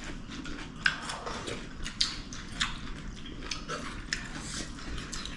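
A person eating close to the microphone: chewing with soft, irregular wet clicks and lip smacks.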